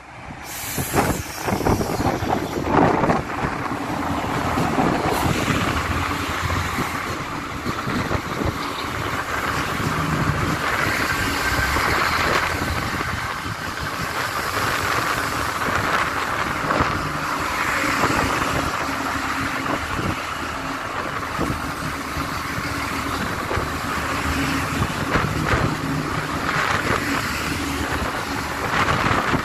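Iarnród Éireann diesel multiple unit running in alongside the platform: wheel and rail noise over the drone of its diesel engines, loud from about a second in. A thin squeal comes through about a third of the way in as the train slows to a stop.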